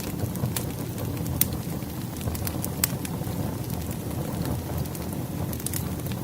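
Burning firewood crackling: a steady low rumble of flames with sharp pops every second or so.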